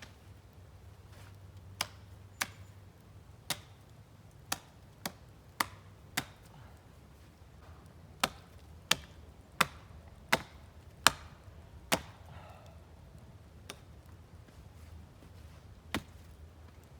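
Wood being chopped: about fifteen sharp strikes, each with a short ring, in two runs with a pause of about two seconds between them, then a last strike near the end.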